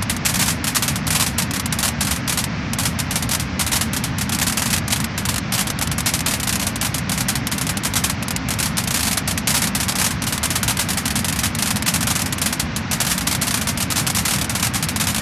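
Wood fire burning in a fireplace, crackling and popping continuously with dense fine crackles over a steady low rumble.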